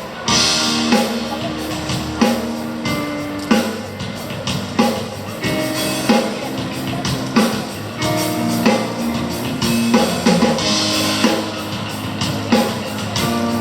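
Live band music at a sound check: held guitar chords over a drum kit, with strong accented hits about every 1.3 seconds and no singing.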